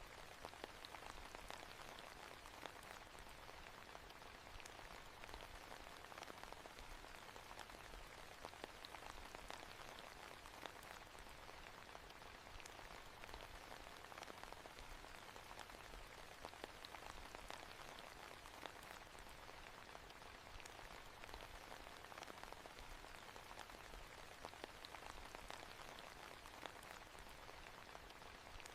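Steady, faint rain falling, a dense stream of small drop ticks over an even hiss.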